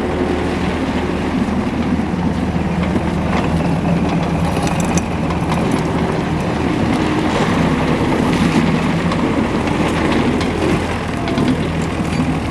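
John Deere 323 skid steer's diesel engine running steadily, with a few light rattles about four to five seconds in.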